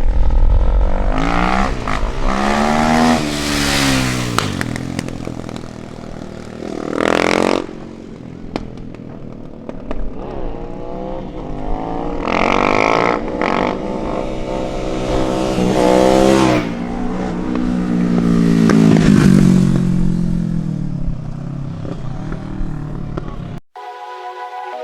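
Performance cars and motorcycles revving hard and accelerating away one after another, about five passes, each engine's pitch climbing and then falling away. The engine sound cuts off abruptly about a second before the end, replaced by music.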